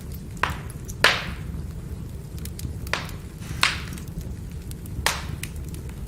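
Wood fire burning, with sharp crackling pops about five times, the loudest about a second in, and fainter ticks between them over a steady low rumble.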